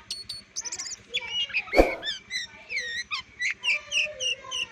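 Oriental magpie-robin (kacer) singing a quick run of varied chirps, whistles and sliding notes, with one sharp knock a little under two seconds in.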